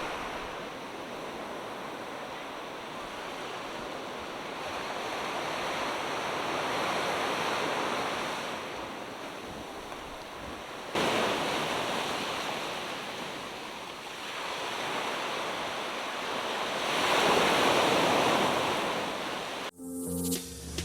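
Ocean waves breaking and washing onto a beach, the surf swelling and easing several times, loudest in a swell near the end. Music with drums starts just before the end.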